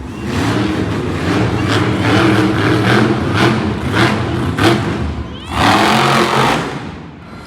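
Monster truck engine running and revving, its pitch rising and falling, with a louder surge about five and a half seconds in.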